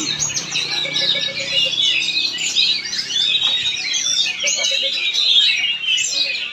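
Oriental magpie-robin (kacer) singing a rapid, unbroken stream of varied whistles, glides and trills.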